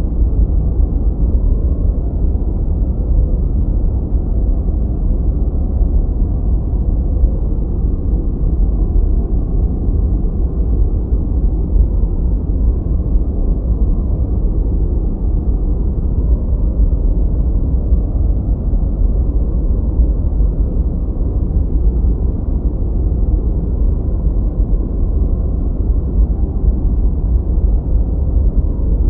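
Continuous generated noise for focus, deep and muffled like a steady low rumble, with no high hiss. It is heavier in the bass than true white noise.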